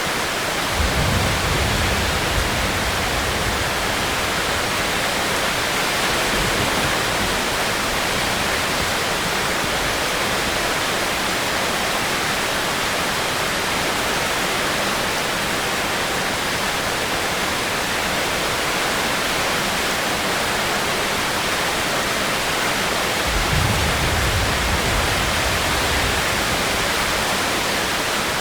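Steady, even rain noise. Two low rumbles rise and fade under it, one about a second in and one near the end.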